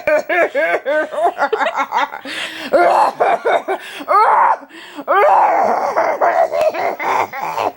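People laughing hard: a quick run of ha-ha syllables, then long breathy, wheezing laughter.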